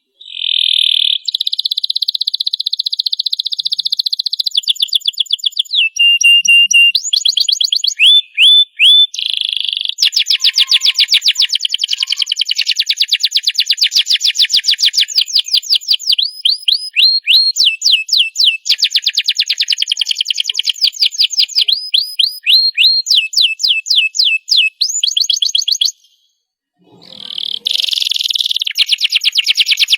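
Domestic canary singing a long, continuous song of fast trills and rapid runs of repeated high notes, changing from one phrase to the next every second or two. The song breaks off for about a second near the end, then resumes.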